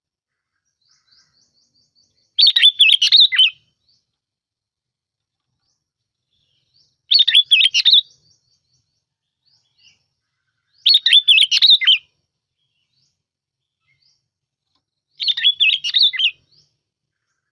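Bulbul (bông lau) song played as a lure recording: four short, rapid warbling phrases about a second long each, spaced roughly four seconds apart.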